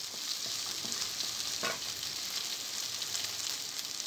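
Julienned chicken and sliced red onion sizzling in hot oil in a pan, stirred with a wooden spatula that scrapes the pan a few times.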